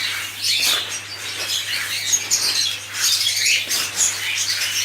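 A flock of budgerigars chirping and chattering continuously, with the dry rustle of loose seed feed being stirred by hand.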